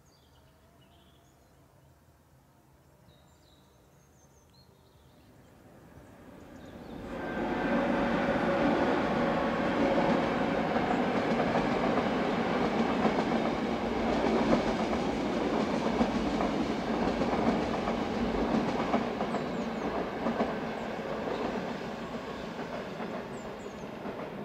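A locomotive-hauled passenger train crossing a stone-arched viaduct: its rumble swells in about six seconds in, stays loud and steady, then eases a little near the end.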